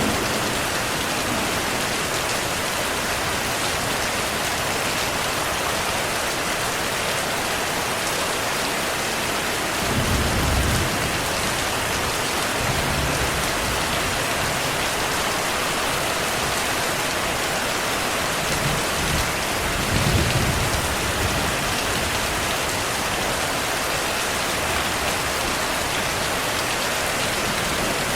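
Steady heavy rain falling, with low rolls of distant thunder rumbling about ten seconds in and again past the middle.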